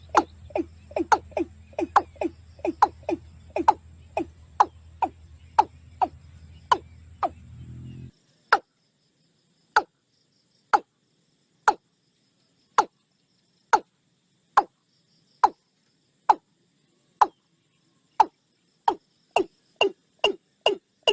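A repeated animal call: short chirps, each sliding down in pitch, about two to three a second over a low hum. About eight seconds in the hum cuts out and the calls slow to about one a second.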